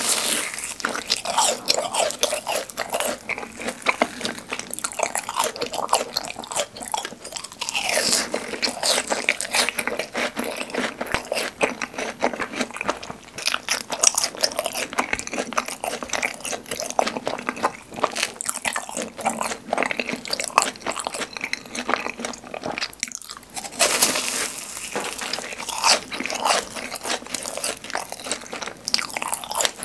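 Close-miked biting and chewing of fried cheese balls: crisp crust crunching and crackling between chews. There are stronger bites at the start, about eight seconds in and about twenty-four seconds in.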